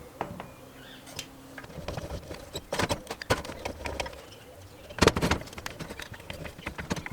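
Irregular metal clicks and knocks from hand tools and parts being handled while working on a small Honda engine, with the loudest clatter about five seconds in.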